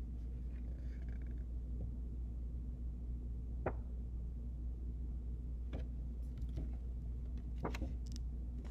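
Steady low hum with a few short clicks and taps a couple of seconds apart, from handling the stiff pages and flaps of a board book.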